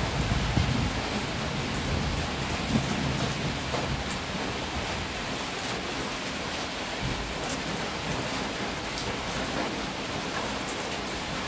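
Heavy rain falling steadily, with a low rumble of thunder that fades away about four seconds in.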